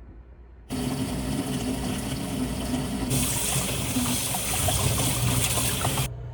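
Kitchen tap running water into a sink, as new cutlery is washed to remove its polishing compound. The water starts abruptly about a second in, gets hissier about halfway through, and cuts off abruptly near the end.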